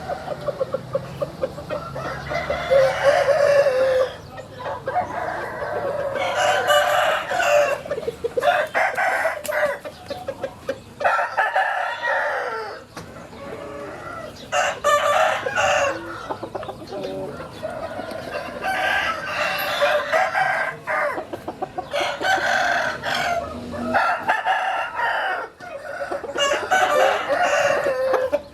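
Several roosters crowing over and over, the crows following one another every second or two and overlapping, with clucking between them.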